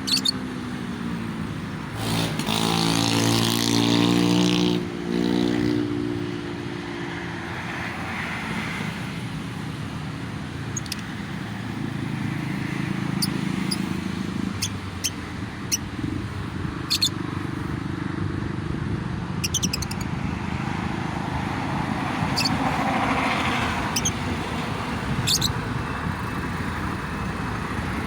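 Steady road traffic from the toll road below, with one vehicle passing louder, its low engine drone loudest about two to five seconds in. Short, sharp lovebird chirps are scattered through it.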